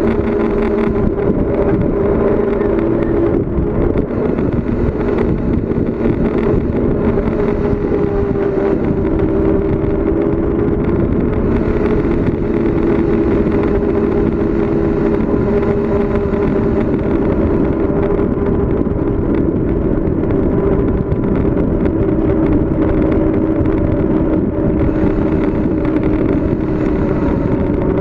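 Steady road and wind noise of a bicycle descending at speed, with a droning hum that shifts slightly in pitch over time.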